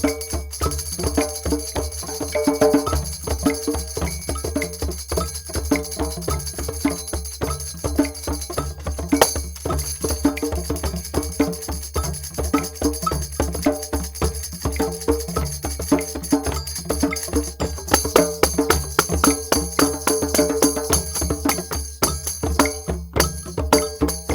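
Group drum jam: drums and other percussion playing a dense, fast, steady rhythm.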